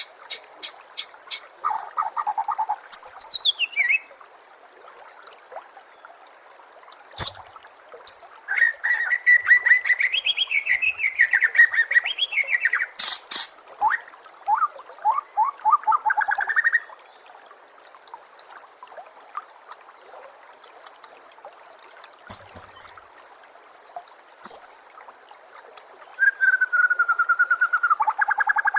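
White-rumped shama (murai batu) singing in bursts of varied phrases: fast trills, rising and falling whistled sweeps and very high chattering notes, with pauses of a few seconds between bursts. A steady trickle of water runs underneath.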